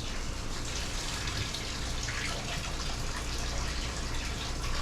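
Steady rush and bubbling of a pot of water boiling on a kitchen stove, with a low hum underneath.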